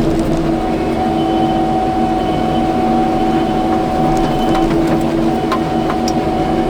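Kubota skid steer's diesel engine running steadily under work, with a steady whine over the engine hum and a few light clicks.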